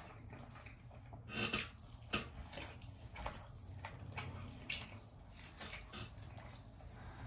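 Wet chewing and lip-smacking as barbecue pork rib meat is bitten off the bone: a string of short sticky clicks, the loudest about one and a half and two seconds in.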